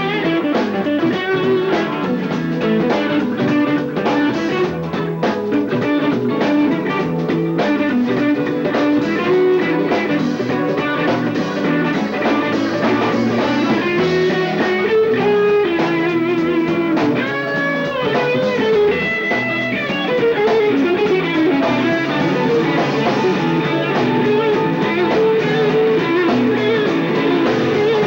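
Live rock band playing an instrumental jam: an electric guitar takes a lead line over bass and drum kit, heard through a lo-fi cassette recording with the highs cut off.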